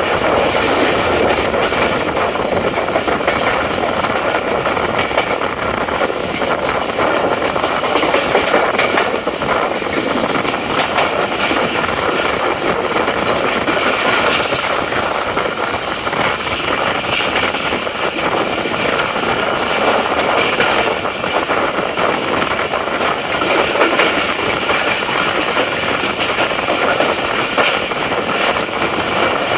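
Express passenger train running, heard from aboard a coach: a steady loud rumble and rattle of wheels on rails, with faint high steady tones over it, while the train takes a long curve.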